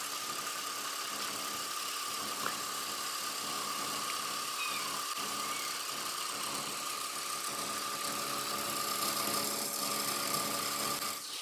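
A machine running steadily, with a constant hum and a steady high whine.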